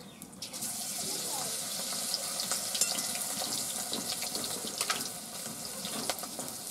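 A batter-coated eggplant slice frying in a steel wok: a steady sizzle with crackling pops that starts about half a second in, as the slice goes into the hot pan.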